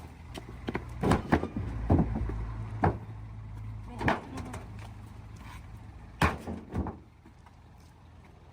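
A car's engine running steadily under a series of sharp metal clunks from the car's body, like a door or panel being slammed that won't close. The engine hum stops about seven seconds in.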